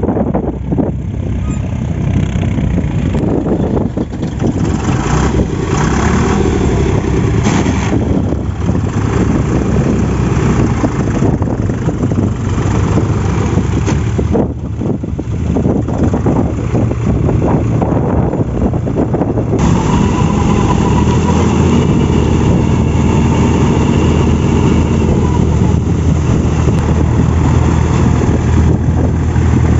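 Tractor diesel engine running steadily while puddling a flooded paddy field with a rotavator. About twenty seconds in the sound changes abruptly and the engine note becomes steadier and more even.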